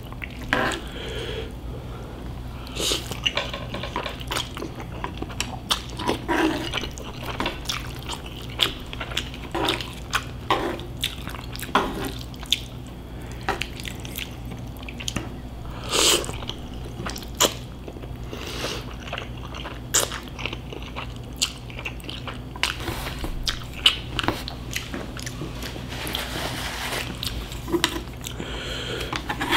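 Close-miked chewing and wet mouth sounds of someone eating cold instant noodles with chopsticks: a string of short, irregular smacks and clicks.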